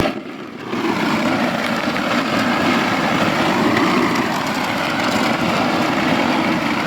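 A snow shovel blade is set down with a knock, then pushed steadily along the pavement in one long, even scrape through a thin crust of freezing-rain ice. The ice has not bonded to the salt-treated pavement, so the blade slides on down to bare pavement without stopping.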